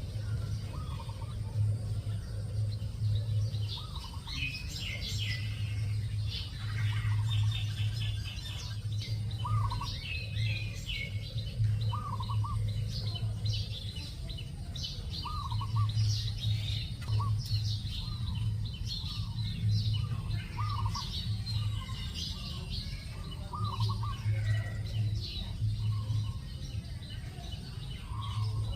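Several birds chirping and calling, with short high chirps throughout and a short call repeated every second or two. A low hum comes and goes underneath.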